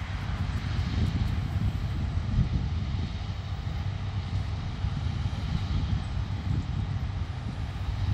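Wind buffeting the microphone: a steady low rumble that swells and eases in gusts.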